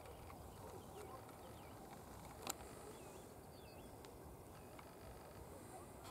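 Faint outdoor quiet with a low background hiss, a few distant bird chirps near the middle, and one sharp click about two and a half seconds in.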